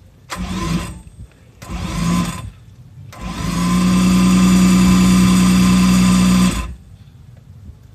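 Starter motor cranking the Honda RA272's 1.5-litre V12 without firing: two short spins, then one steady run of about three and a half seconds that spins up and stops abruptly. This turns the dry-sump engine over to build oil pressure before it is started.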